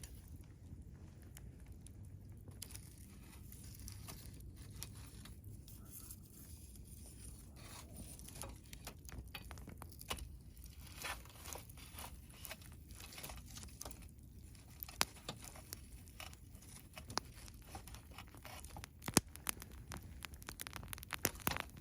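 Campfire crackling, with sharp pops of burning wood that come more often from about eight seconds in, over a low rumble.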